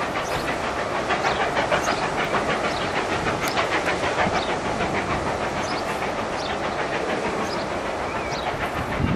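Steam-hauled train running past close by, its wheels clattering over the rails in a fast, even rhythm. A low thump comes near the end.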